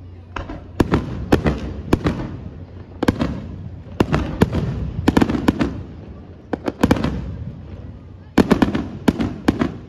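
Aerial firework shells bursting in a rapid series of sharp bangs, some in quick clusters of two or three, each followed by a low rumbling echo.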